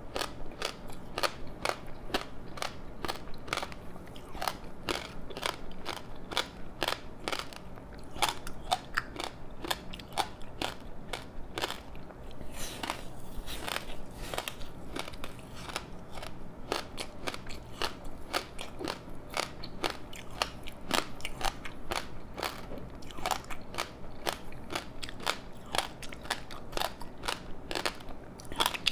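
Close-miked crunching and chewing of a crispy seaweed-wrapped rice snack: a dense, irregular crackle of the brittle seaweed breaking between the teeth.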